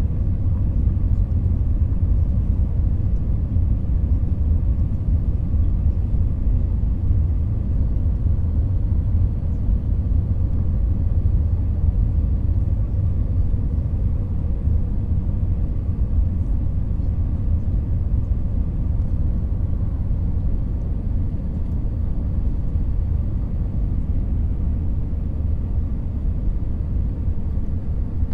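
Steady low rumble inside a jet airliner's cabin, engines running.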